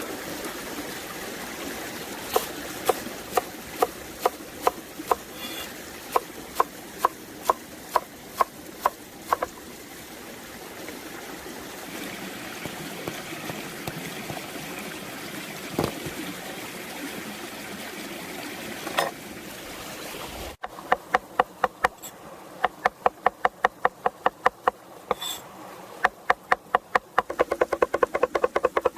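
Knife chopping on a cutting board in steady strokes, about two a second, pausing for a while midway and then resuming, faster near the end.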